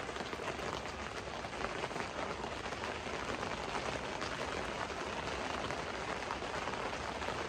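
Steady rain pattering on the fabric of a tent, heard from inside.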